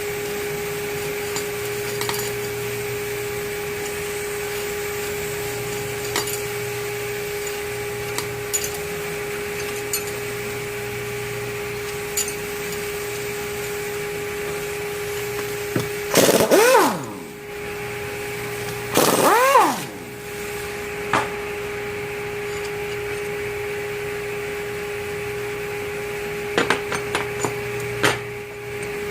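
A handheld power tool spins up and winds down twice, each a burst of about a second, over a steady hum with light metallic clicks of parts being handled. The tool is most likely backing out the rotary engine's tension bolts.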